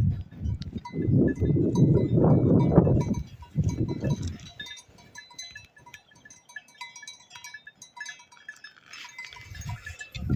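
Bells on grazing livestock tinkling irregularly. For the first few seconds, and again near the end, a heavy low rumble of wind buffets the microphone.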